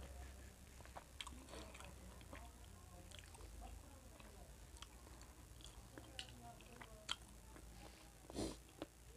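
Close-miked chewing of rice with the mouth closed: soft wet mouth clicks and smacks, with a short louder sound near the end.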